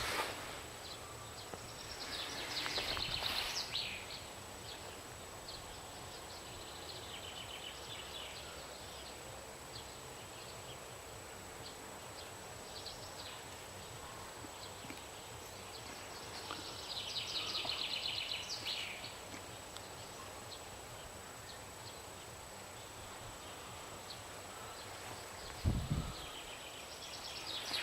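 A bird's harsh, rattling calls, each lasting one to two seconds, recurring every several seconds; three are loud and a few between are faint. There is one low thump shortly before the last call, and a thin, steady high whine runs underneath.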